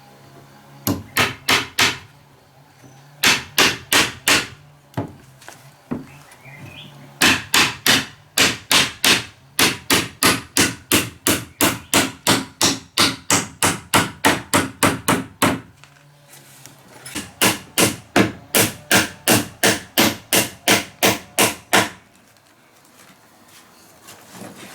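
Hammer blows on wood, about three a second, in runs of a few strikes up to several dozen, with short pauses between the runs.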